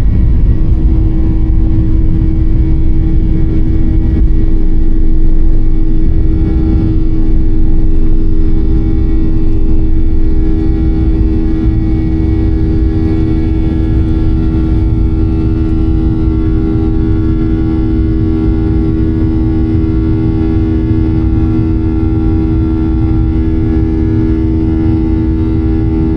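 Airliner engines running, heard as a loud, steady low rumble with a constant droning hum.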